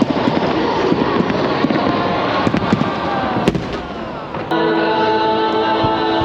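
Dense crackling and sharp pops from a large fireworks display. About four and a half seconds in, music with a steady held chord suddenly comes up loud over the crackle.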